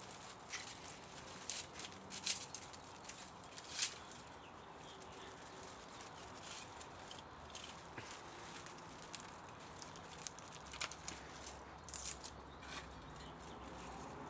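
Irregular light clicks and taps of small metal parts being handled while dismantling a scrap electric motor, two sharper knocks in the first few seconds and a cluster near the end.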